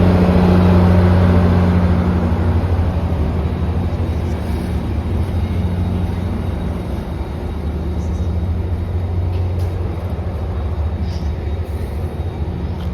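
MARC MP36 diesel locomotive pushing its train past: a loud, steady low engine drone mixed with wheel and rail noise, loudest at first and slowly fading as it moves away.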